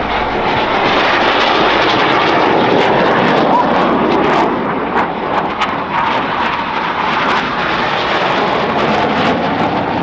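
Loud, steady jet roar of BAE Hawk Mk65 jet trainers flying past, their Rolls-Royce Adour turbofan engines at display power.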